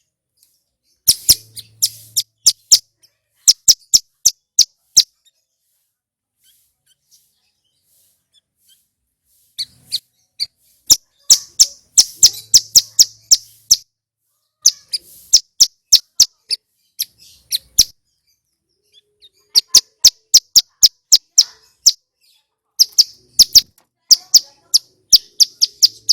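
Male ciblek gunung (mountain prinia) calling loudly: rapid strings of sharp, high, clicking chirps in bursts of a few seconds. Each burst is separated by a short pause.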